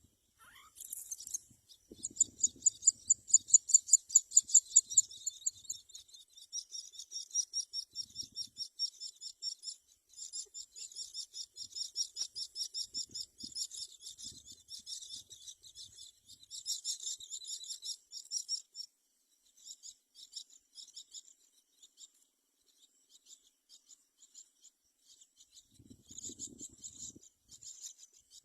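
Nias hill myna nestlings calling from the nest: rapid, high-pitched chirps repeated several times a second, loudest a few seconds in and growing sparser in the last third, with faint low rustling at times.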